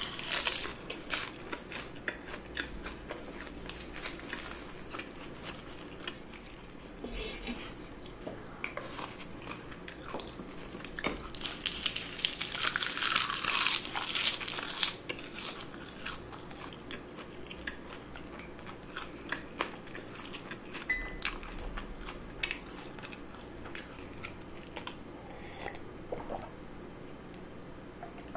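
Close-miked chewing of soy-sauce-marinated raw shrimp and rice: soft wet squelches, smacks and small clicks of the mouth. About halfway through there is a louder, hissier stretch of a few seconds.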